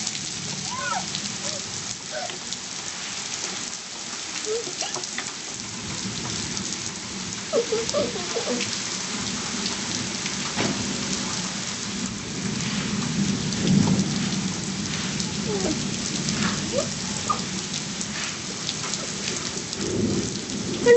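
Steady rain falling during a thunderstorm, with a low rumble of thunder that swells and fades about two-thirds of the way through, and another brief rumble near the end.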